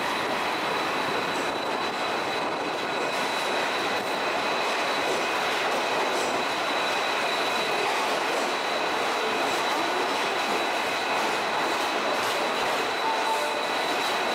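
Passenger train rolling along a station platform, heard from beside the coach: a steady rumble of running noise with a thin high whine held throughout.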